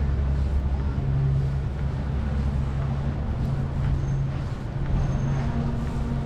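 A motor vehicle's engine running steadily nearby, a low even hum.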